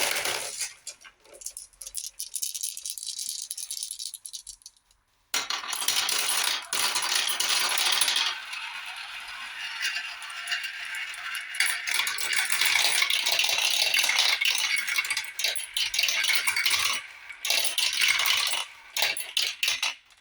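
Glass marbles rolling and clattering down a marble run track: a dense rattle of many rapid clicks that starts suddenly, stops briefly about four seconds in, then resumes and runs on before cutting off abruptly.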